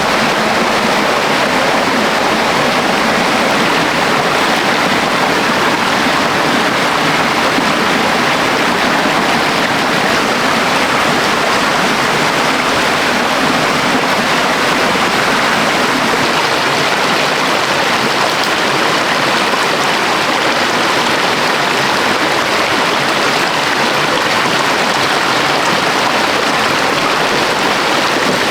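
Rushing water of a stream or waterfall: a steady, unbroken rush with no change.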